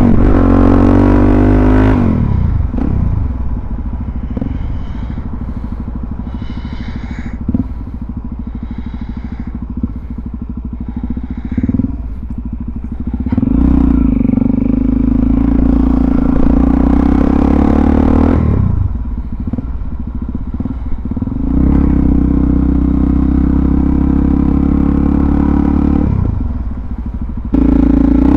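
Suzuki DR-Z400SM's single-cylinder four-stroke engine under way on the road. The revs fall over the first two seconds and the engine runs lower with a few sharp clicks. About halfway through the revs climb and hold for several seconds, then ease off and build again, dipping briefly just before the end.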